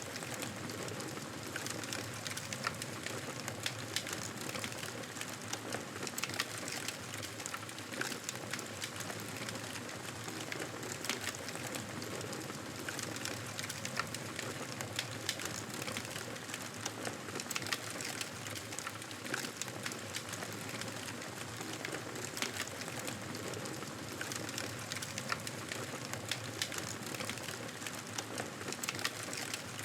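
Wood fire crackling steadily: a constant hiss dense with small sharp pops.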